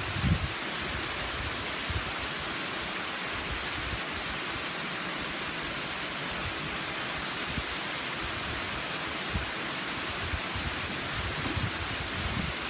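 Waterfall swollen by heavy rain, its falling water rushing in a steady, even roar. A few brief low thumps break in, the loudest just after the start.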